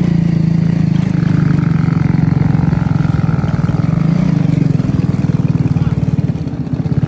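Motorcycle engine running steadily at low revs, its firing pulses coming fast and even.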